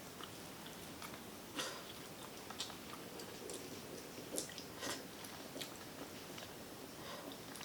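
Close-up chewing and biting of boiled seafood, with scattered soft mouth clicks and smacks.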